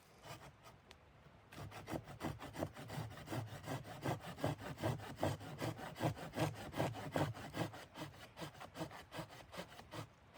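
A hand saw cutting wood in quick, regular strokes, about five a second. The strokes grow stronger after the start and ease off near the end.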